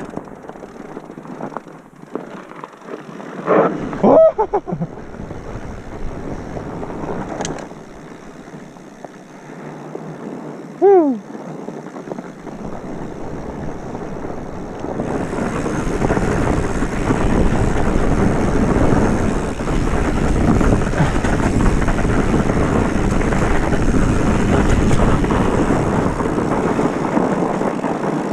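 Wind rushing over the microphone and tyre noise from a bicycle riding down a trail, growing much louder about halfway through as the speed picks up. A short vocal sound about four seconds in and a 'woo' shout about eleven seconds in.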